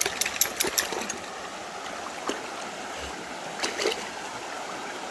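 Creek water flowing steadily over rocks, with a few splashes in the first second and again near the end as someone wades through knee-deep water.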